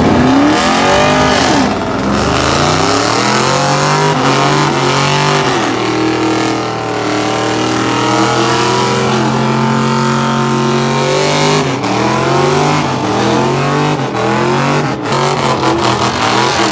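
Car engines revving hard, the pitch repeatedly climbing and dropping, with one held at a steady high rev for several seconds midway. Near the end a rapid, even pulsing sets in.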